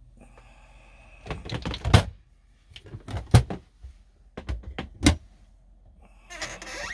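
A series of sharp knocks and thumps, three of them loud, spaced about a second and a half apart, with a faint squeak just before them.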